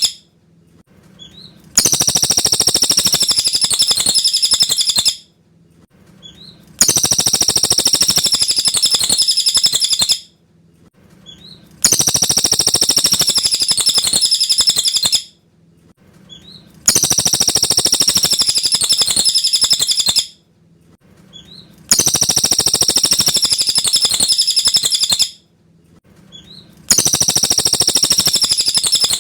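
A cililin bird singing a rapid, high-pitched chattering phrase of about three seconds. It repeats the same phrase every five seconds with short pauses between, in which a faint single chirp can be heard. This is clear cililin song, used as a master recording for training white-rumped shamas (murai batu) to copy.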